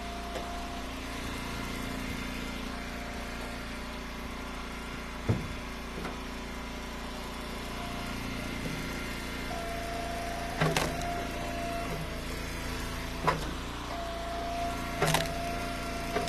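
Eastonmade Ultra log splitter running steadily, a higher tone coming in twice as it works under load. A few sharp knocks of split ash firewood pieces falling and being tossed.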